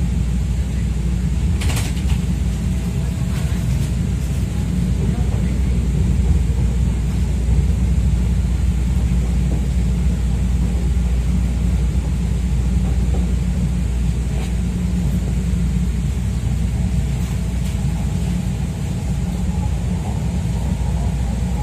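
Rapid-transit train car running on elevated track, heard from inside the car: a steady low rumble with a few faint clicks.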